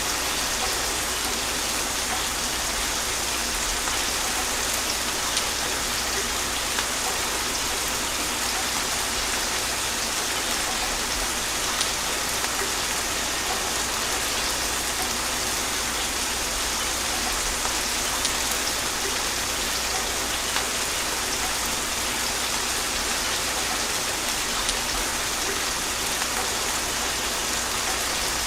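Steady gentle rain falling on a surface, an even hiss with scattered small droplet ticks and no thunder.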